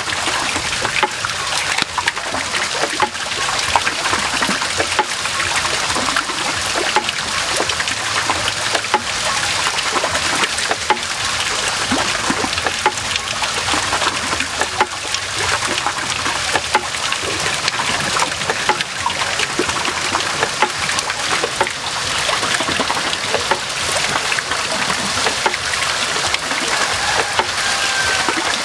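Diced meat and vegetables frying in a hot wok: a steady sizzle with a dense stream of small pops and crackles.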